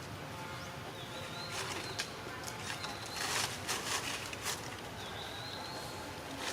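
Rustling and light knocking, loudest through the middle, with a short high chirp-like call heard twice in the background.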